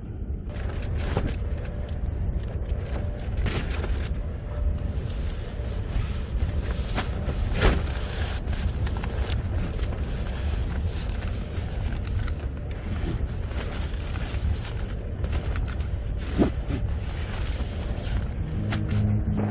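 Strong wind buffeting the microphone: a heavy, uneven low rumble with irregular crackles and gusts.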